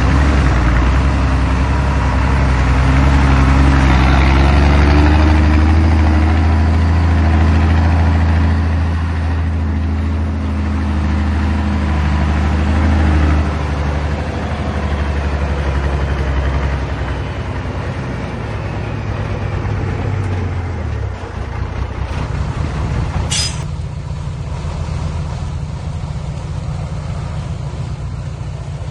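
Heavy truck's diesel engine running at raised speed, then dropping to a lower, steadier idle a little past the halfway point. A short, sharp air-brake hiss comes about three-quarters of the way through.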